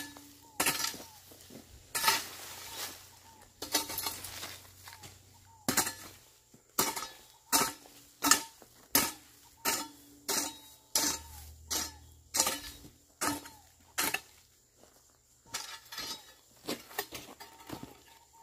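Hoe blade chopping into the ground while weeding, a steady run of sharp strikes with a metallic clink, a little over one a second and quickening near the end.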